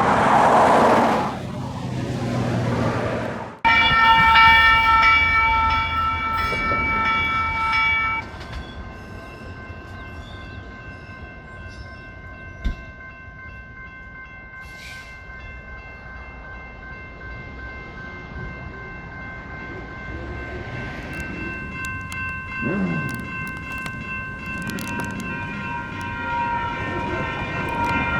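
Sacramento light rail train: a loud rushing pass in the first few seconds, then after a sudden cut a horn chord sounds for about four seconds, with fainter steady tones lingering afterwards.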